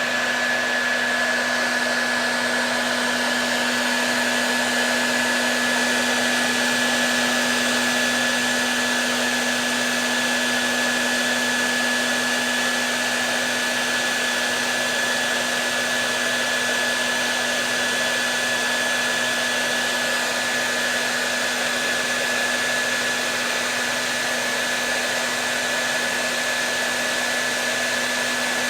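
Hair dryer running continuously: a steady blowing rush with a constant motor hum and a thin steady whine, played as soothing white noise to settle a baby.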